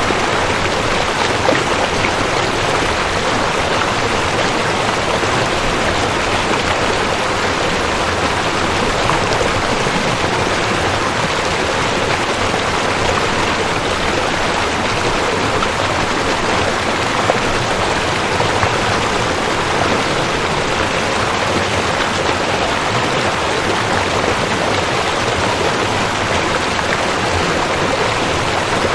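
Rushing creek: water pouring and splashing over rocks in a steady, even rush.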